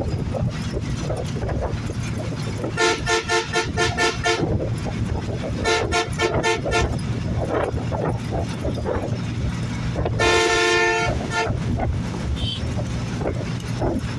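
Road vehicle horn sounding twice as a quick string of short beeps, about five a second, then once more as a single held blast about ten seconds in. Under it runs the steady low rumble of a moving bus and road noise.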